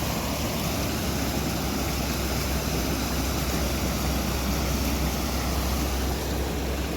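Steady rushing noise of heavy rain, with wind buffeting the microphone as a deep rumble underneath.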